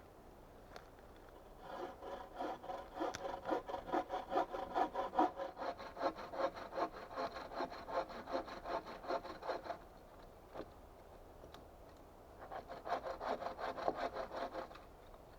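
Hand saw cutting through wood in quick, even back-and-forth strokes. A long run of sawing stops for a couple of seconds, then a short second run follows near the end.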